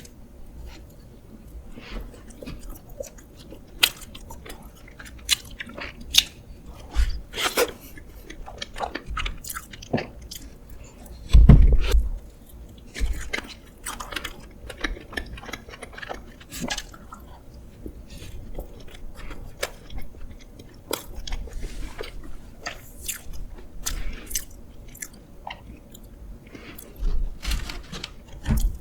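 Close-miked chewing and biting of cake and doughnuts, wet mouth sounds and small clicks throughout, with one louder low thump about eleven seconds in.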